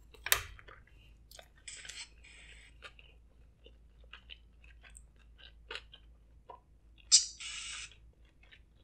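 Close-miked chewing of a sushi roll with the mouth closed: soft wet clicks and smacks. There are two short hissy sounds, about two seconds in and again about seven seconds in, the second the loudest.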